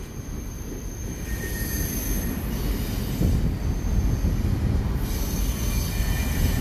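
Freight train covered hopper cars rolling past with a steady low rumble, their wheels squealing in thin high tones that come and go as they take the curve.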